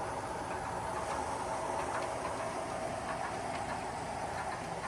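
Model train of seven lashed-up locomotives pulling about 28 cars up a grade: steady running noise of the motors and wheels on the track.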